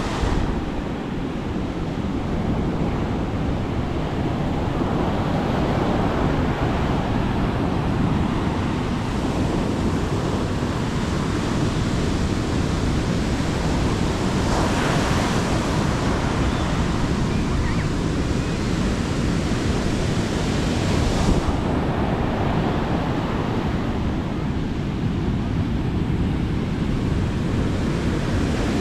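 Sea waves breaking and washing up on a beach, a steady surf noise with a couple of louder breakers, about halfway through and again near two-thirds in. There is some wind noise on the microphone.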